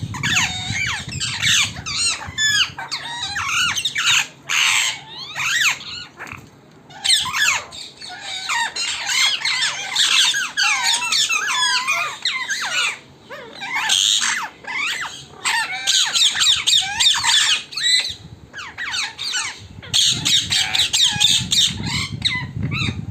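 A flock of wild parrots squawking and chattering, many harsh calls overlapping with short pauses, over a low rumble near the start and again near the end.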